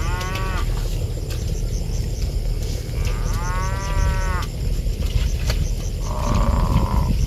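Water buffalo in a herd mooing: a short call at the start, a longer drawn-out call about three seconds in, and a rougher, hoarse call near the end, over a steady low rumble.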